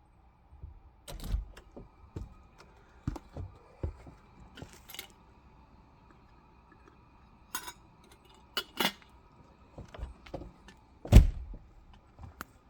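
Scattered clicks, clinks and knocks of objects being handled, a dozen or so at irregular spacing, with one loud thump about eleven seconds in.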